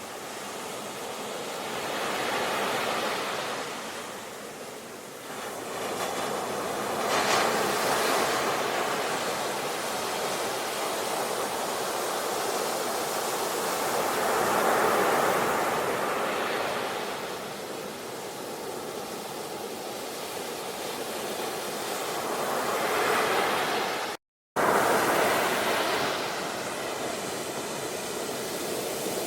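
Sea waves washing onto a shore, a steady surf hiss that swells and eases every few seconds. The sound cuts out completely for a fraction of a second about three-quarters of the way through.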